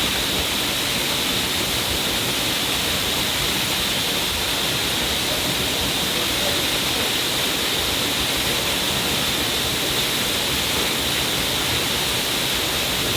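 A stream of water pouring down a cliff face: a steady, even rush of falling water with no breaks.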